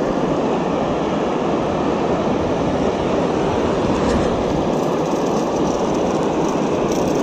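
Steady rushing of stream water, a loud even roar with no rhythm.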